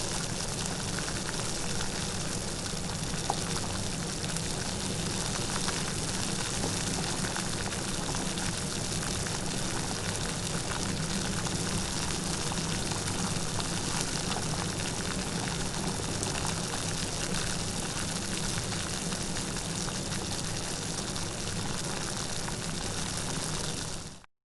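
Light rain falling steadily, a continuous patter of fine drops. It drops out briefly right at the very end.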